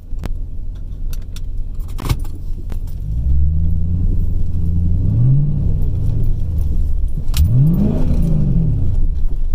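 Car engine heard from inside the cabin while driving slowly over a rough dirt trail, revving up and easing off several times. Rattling and jangling run through it, with a couple of sharp knocks from the bumps.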